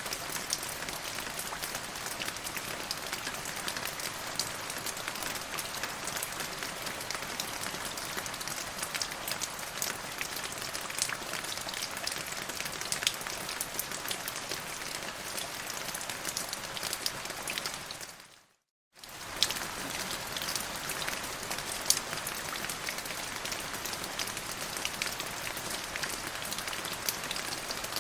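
Steady rain falling, a dense patter of drops with a few sharper single drops. About two-thirds of the way through it fades out to silence for a moment and comes straight back, like a loop seam.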